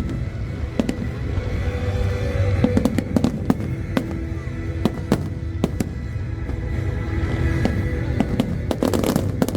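Aerial fireworks bursting over and over: many sharp bangs and crackles in quick succession over a low rumble, with music playing underneath.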